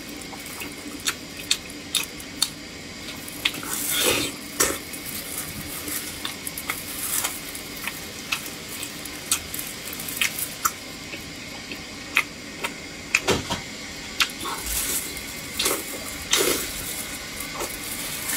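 Close-miked eating sounds: wet chewing and smacking of soft, fatty braised pork belly, with many short sharp clicks and a few louder wet squelches about four seconds in and again near the end.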